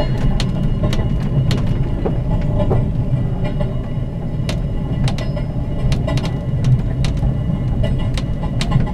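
Spirit of the Outback passenger train running on jointed 3'6" gauge track, heard from inside the carriage: a steady low rumble with sharp clicks, some in quick pairs, as the wheels cross the rail joints (the clickety-clack of jointed track).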